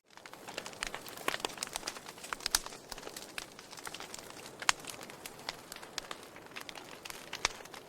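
Logs burning in a fireplace, crackling with irregular sharp pops over a soft hiss. The sound cuts out for a moment at the very start and fades back in.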